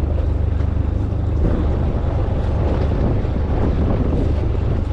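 Steady low rumble of a small boat at sea, with wind buffeting the microphone.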